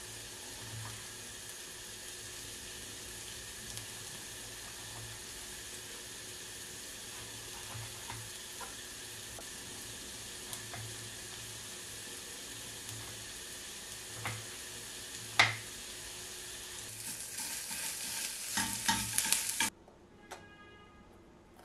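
Food sizzling in a frying pan with a steady hiss, and occasional clicks of a utensil against the pan. Stirring clatter grows busier near the end, then everything cuts off abruptly.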